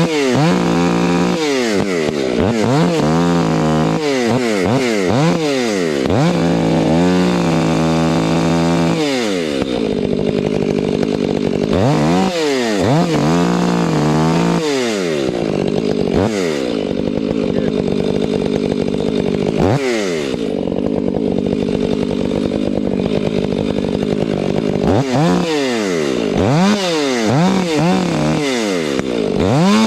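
Chainsaw revving up and down again and again, with long steady stretches as it bogs into the wood of a silver maple during cuts, the longest through the middle.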